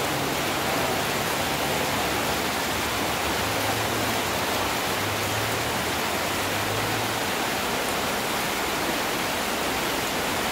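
Steady heavy rain, an even hiss with no let-up, with a faint low hum underneath that stops about seven seconds in.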